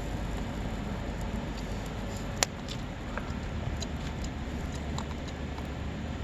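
Wood campfire crackling: scattered small pops and one sharp crack about two and a half seconds in, over a steady low rumble.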